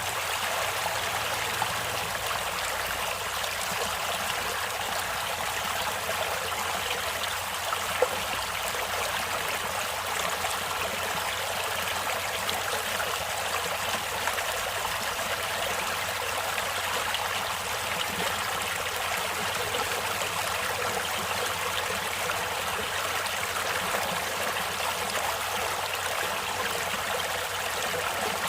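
Stream water running and trickling over stones, a steady even rush with a brief sharp click about 8 seconds in.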